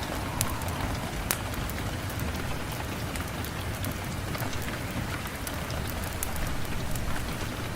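Steady rain falling, mixed with scattered sharp crackles and pops from a wood fire, two of them louder in the first second and a half.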